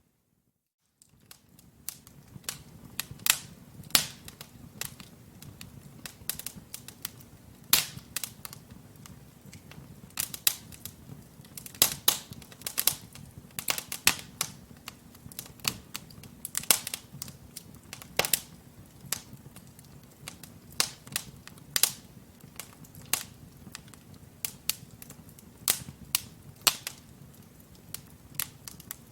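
Wood logs burning in a fireplace, crackling with frequent irregular sharp pops over a low steady rumble of the flames. The sound starts after about a second of silence.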